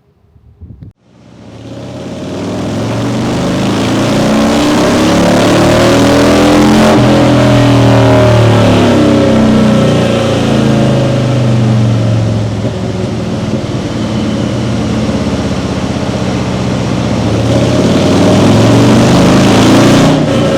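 Harley-Davidson Street Glide's Milwaukee-Eight 107 V-twin running through an SP Concepts full-length Turnpike 2-into-1 exhaust, riding on the road. It grows loud over the first few seconds, its pitch rising and falling with the throttle, eases off for a while, then swells again before cutting off near the end.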